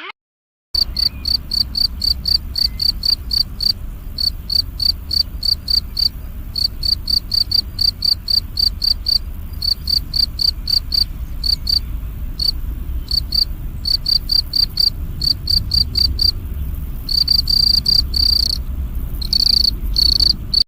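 An insect chirping in a steady rhythm of short, high chirps, about three a second, over a low rumble. Near the end the chirps run together into longer trills.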